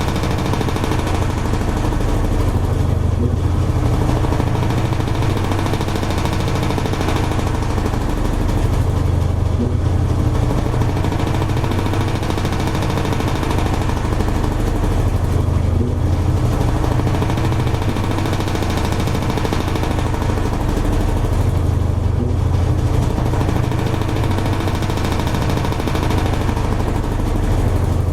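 Toshiba AW-42SEE4(S) fully automatic washing machine running, a steady motor hum under a wash of churning noise that swells and eases about every six seconds.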